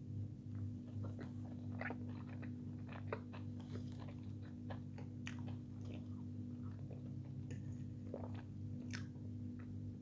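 Close-up eating sounds: a person biting and chewing fried chicken nuggets and fried potatoes, with many short, irregular crunches and mouth clicks. A steady low hum runs underneath.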